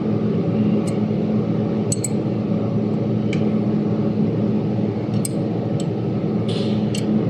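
Electric motor of a dual circular saw aluminium-profile cutting machine running with a steady hum, no cut being made. Several light metallic clicks and clinks are heard over it.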